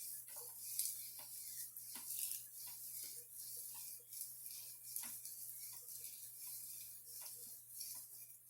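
Hands raking thick hair gel through damp, coiled natural hair: a soft, steady hiss broken by small irregular wet clicks.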